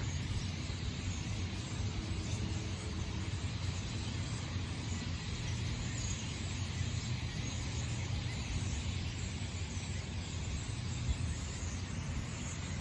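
Steady outdoor background noise: an even low rumble with a hiss over it, like distant traffic, holding level throughout with no distinct events.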